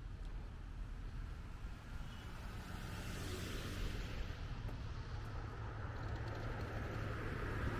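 Road traffic on a city street: a passing car's tyres and engine, the sound swelling about three seconds in and growing louder toward the end.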